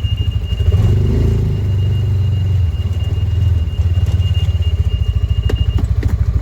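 T-Boss 550 UTV engine running with a steady, rapid pulse while the vehicle is backed up, under a continuous high-pitched tone that cuts off near the end, typical of a reverse warning buzzer. A few sharp clicks follow.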